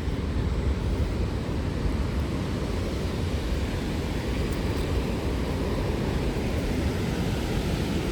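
Steady, loud roar of a waterfall, rushing water heard close by.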